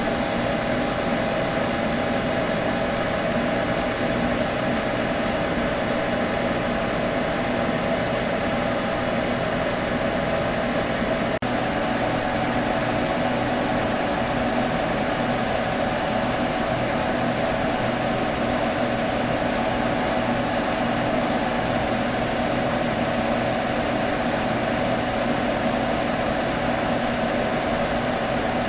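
Computer humming steadily: an even fan whir with a steady midrange hum tone, broken by a momentary dropout about eleven seconds in.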